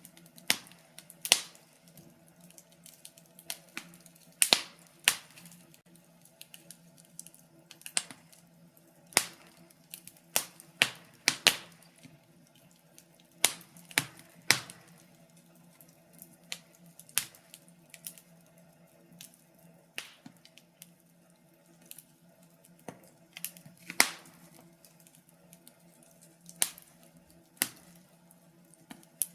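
Wood fire crackling: irregular sharp pops and snaps, a few loud ones among many faint ticks, over a faint steady low hum.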